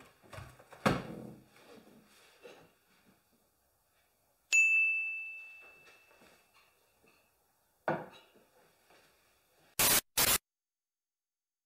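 Light clattering and knocking, then a single bright ding whose clear tone rings out and fades over about two seconds. A knock follows, and near the end two short, sharp bursts of noise in quick succession, which stop abruptly.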